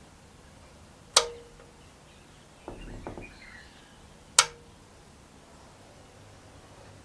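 Two sharp clicks about three seconds apart, each followed by a brief ringing tone, with a short run of softer knocks between them: parts or tools being handled at a workbench.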